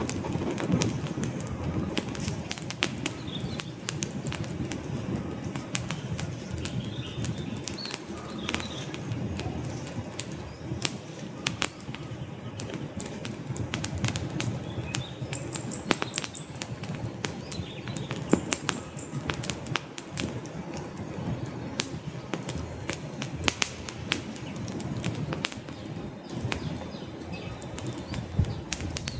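Wood fire crackling in a fireplace: frequent sharp pops and snaps from the burning logs over a low steady rush of flame.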